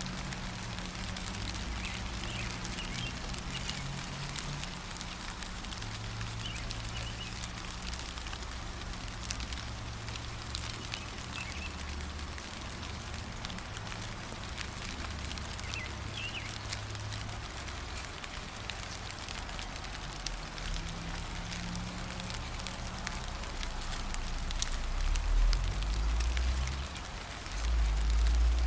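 Steady gentle rain pattering, with a few brief bird chirps here and there. A low rumble runs underneath and swells twice near the end.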